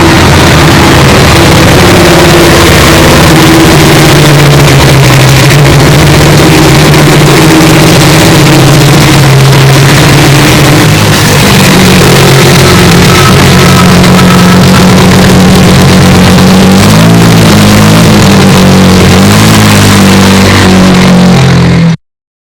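Historic Group C prototype race car engine running very loud and distorted, its note holding fairly steady, then wavering up and down in pitch near the end before cutting off abruptly.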